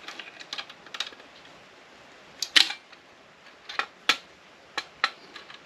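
Hand side cutters snipping solder and wire off small brass parts, a string of sharp irregular clicks and snaps. The loudest snap comes about two and a half seconds in.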